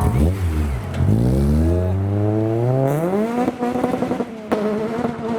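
A car engine accelerating away, its note climbing steadily for about three seconds and then holding steady. There is a sharp click about four and a half seconds in.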